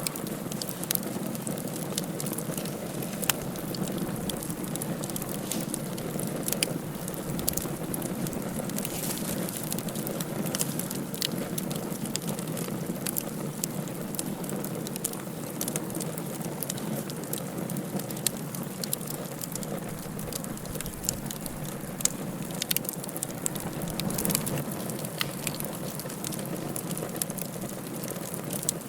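Wood fire burning in a fireplace: a steady rush with frequent sharp crackles and pops scattered throughout.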